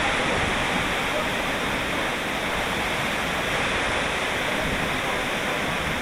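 Steady rush of a waterfall pouring into its pool, an even wash of water noise with no break.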